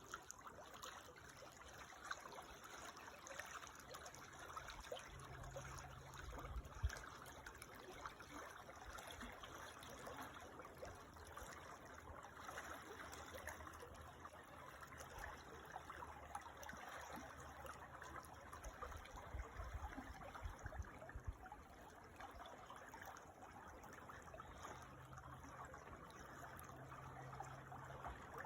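Creek water trickling and flowing steadily, a faint even splashing, with an occasional soft low rumble and a single sharp click about seven seconds in.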